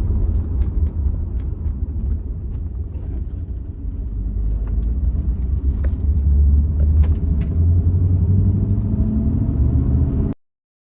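2002 Pontiac Trans Am WS6's LS1 V8 and road noise heard from inside the car while driving, with a few light clicks; the engine note builds from about four seconds in, then the sound cuts off abruptly near the end.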